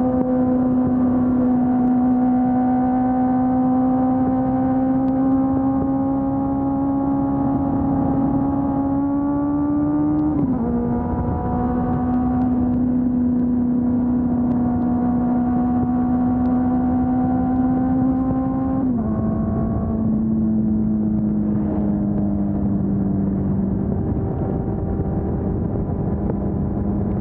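A Honda CB400 Super Four's 399 cc inline-four engine on the stock exhaust, running under steady throttle at fairly high revs. Its note climbs slowly, drops as the rider shifts up about ten seconds in and again near nineteen seconds, then falls gently as the bike eases off.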